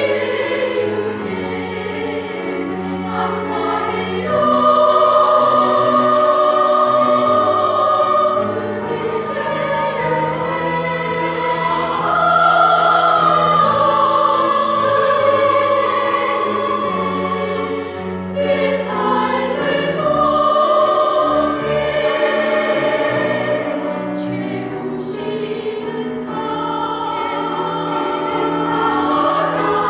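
Small church vocal ensemble singing a slow hymn in parts with accompaniment, the voices holding long sustained notes.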